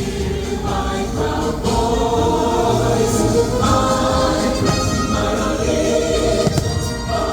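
A choir singing with musical backing: the fireworks show's soundtrack.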